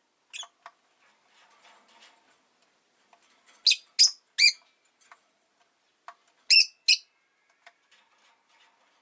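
Rosy-faced lovebird giving short, sharp, shrill chirps: one about half a second in, three in quick succession near the middle, and two more a couple of seconds later, with faint soft clicks in between.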